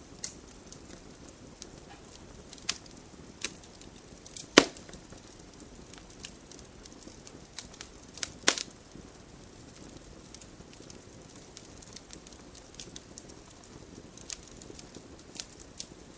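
Wood fire crackling in a fireplace: scattered sharp snaps and pops over a low steady rush of burning, with two louder pops about four and a half and eight and a half seconds in.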